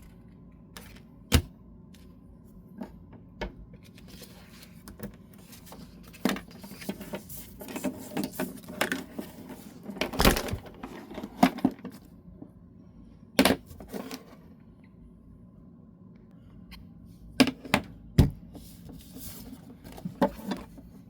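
Paper and craft supplies being handled on a tabletop while cut-out paper pieces are glued onto cardstock: scattered sharp taps and clicks, with short spells of paper rustling.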